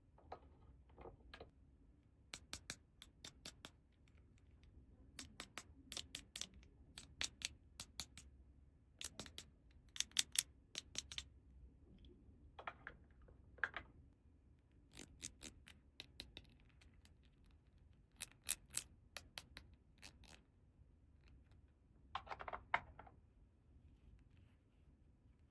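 Small plastic toy pieces clicking and tapping as they are handled, in quick runs of sharp clicks, with a few short softer rustles.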